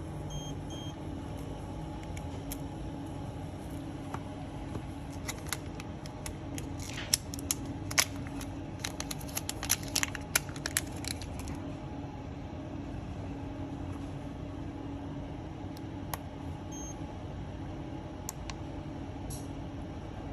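Small metal repair tools clicking and tapping against a phone's parts, a cluster of sharp clicks from about five to eleven seconds in, over a steady low hum.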